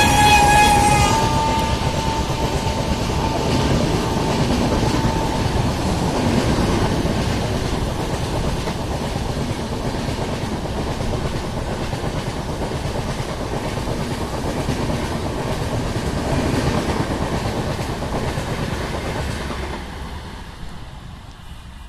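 Train horn of a WAP-7 electric locomotive, cutting off about a second in. The passing train's wheels then rumble and clatter over the rail joints for a long stretch before fading away near the end.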